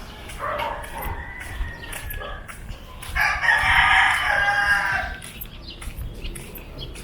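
A rooster crowing once, a single drawn-out call of about two seconds starting about three seconds in.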